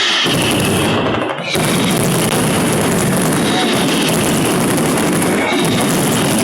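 Final barrage of an aerial fireworks display: a dense, continuous rattle of rapid bangs and crackles, overloading the microphone, with a brief lull about a second in.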